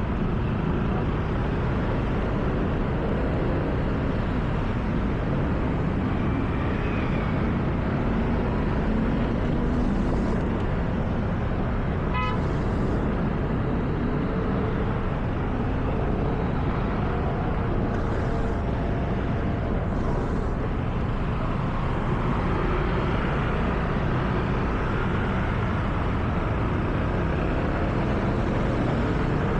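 A car driving on a wet road at night: steady engine and tyre noise with a wet hiss, the engine's pitch rising and falling gently. A short high beep sounds once about twelve seconds in.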